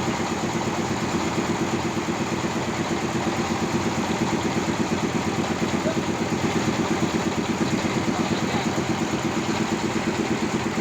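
Sawmill's engine running steadily with an even, fast throb and no change in speed.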